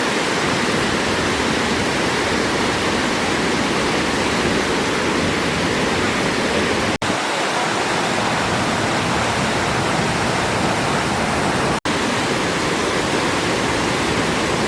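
The steady rush of Aruu Falls, the waterfall on the Agago River, with water pouring down the rocks. The sound breaks off for an instant twice, about seven and twelve seconds in.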